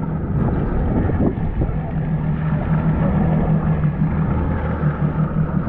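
Jet ski engine idling steadily, with wind on the microphone.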